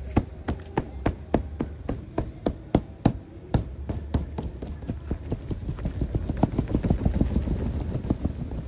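Large drops of rainwater striking tent fabric in irregular taps, several a second, with a low rumble of wind on the microphone joining about three and a half seconds in.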